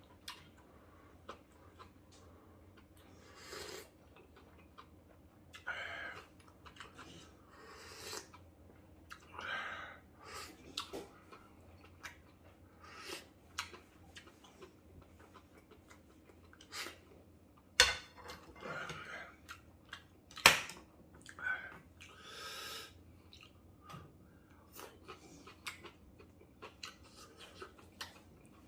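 Someone eating instant ramyeon noodles: repeated short slurps and chewing, with a couple of sharp clicks of utensils against the bowl partway through.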